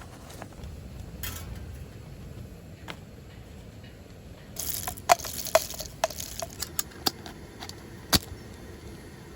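A short rustle, then a run of light clinks and taps of small hard objects, several with a brief ringing note, the last a single sharper click.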